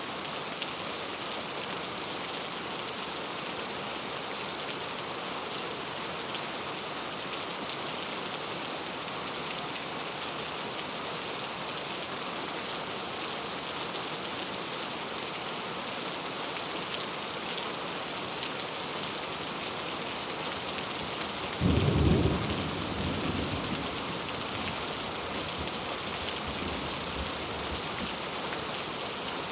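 Heavy rain falling steadily, an even hiss. About three quarters of the way through, a clap of thunder breaks in as the loudest sound, its low rumble dying away over a couple of seconds.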